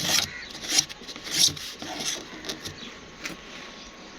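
A series of short, irregular scraping or rubbing strokes, roughly one every half-second to second, fading somewhat towards the end.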